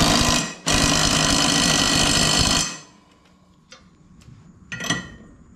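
Power impact wrench hammering, tightening the mower blade bolts: a short burst, then a longer run of about two seconds that cuts off, loud enough to wake you up.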